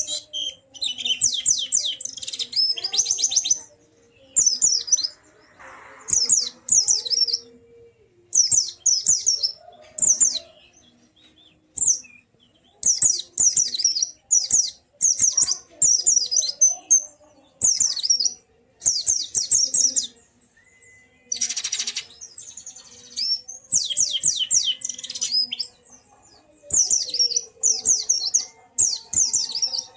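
White-eye (pleci) song: short phrases of rapid, high twittering notes, repeated again and again with brief pauses between them. A short noisy burst comes a little after two-thirds of the way through.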